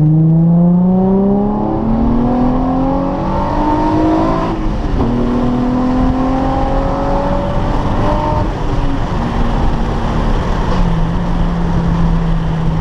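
Nissan 350z's V6 engine accelerating hard through the gears, heard from inside the car. The note climbs, drops at an upshift about four and a half seconds in, and climbs again to about eight seconds. It then eases off and settles to a steady, lower note near the end.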